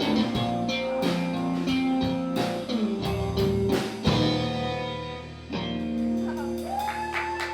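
Live band music: electric guitar playing held, ringing notes over drum hits, with bending guitar notes near the end.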